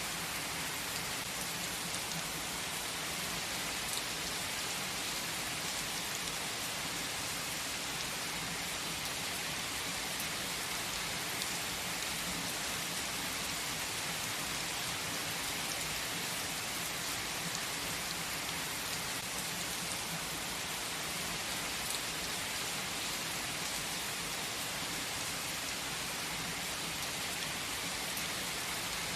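Steady, even rainfall pattering on leaves and surfaces, a constant hiss with faint scattered drop ticks and no thunder.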